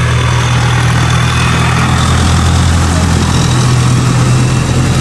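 Long-tail boat engine running steadily at a loud, even pitch.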